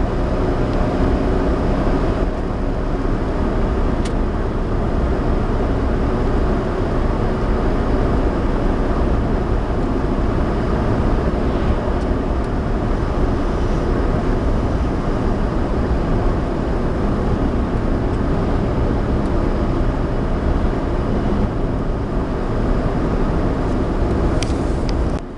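Steady in-cabin noise of a Suzuki Alto 4WD kei car driving: engine and tyre-on-road rumble, mostly low-pitched.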